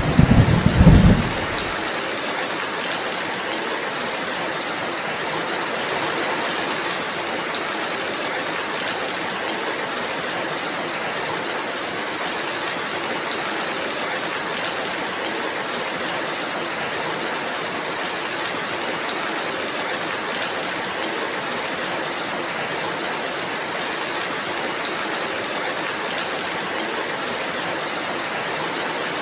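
Steady rainfall, an even hiss of many drops. A loud low rumble of thunder dies away about a second in.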